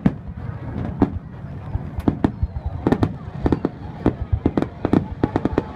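Fireworks display: aerial shells bursting in a rapid, irregular run of sharp bangs, several a second, over a steady low rumble.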